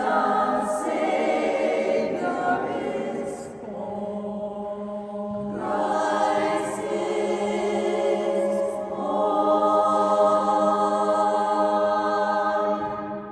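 Barbershop chorus singing a cappella in close harmony, closing on a long held chord that fades out right at the end.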